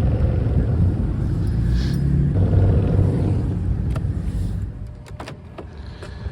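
Vehicle engine running with a steady low rumble that drops away about four and a half seconds in, followed by a few light clicks.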